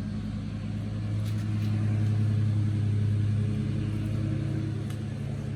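Lawn mower engine running steadily at a constant speed, a low, even hum that swells a little in the middle.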